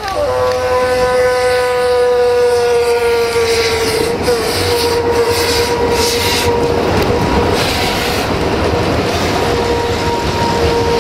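Freight train running past, with a steady pitched tone held throughout that sinks slightly over the first few seconds, over the rumble and clatter of the locomotive and wagons.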